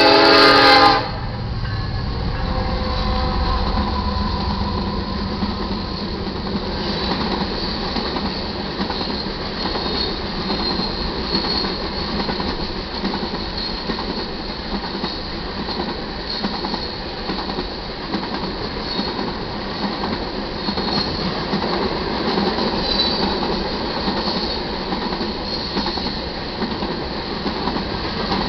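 A diesel locomotive horn sounds loudly and cuts off about a second in. The lead locomotives pass with a low rumble, then a string of loaded iron ore cars rolls by: steady wheel-on-rail noise with clicking rail joints and, now and then, a high wheel squeal.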